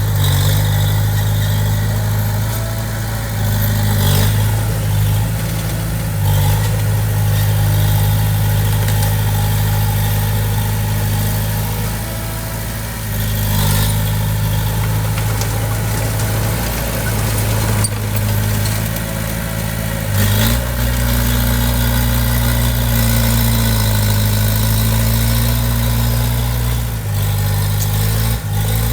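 Diesel engine of heavy earthmoving equipment running steadily, its note shifting as the load changes about 20 seconds in, with a few short knocks along the way.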